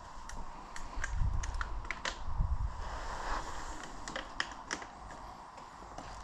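Footsteps: an irregular run of sharp clicks and scuffs, with a few low thuds about one and two and a half seconds in.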